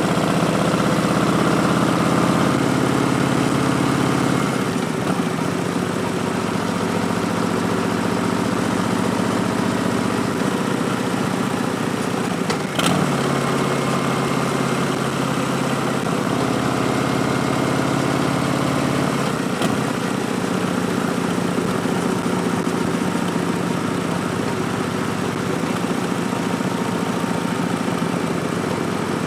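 Harley-Davidson Street Bob's Milwaukee-Eight 107 V-twin running through Vance & Hines Twin Slash slip-on exhausts while riding, its note dropping and rising several times with throttle and gear changes over steady wind noise. A sharp click comes about 13 seconds in.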